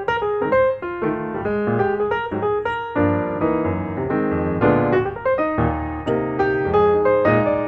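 Background piano music: a keyboard playing quick successive notes and chords at a steady pace.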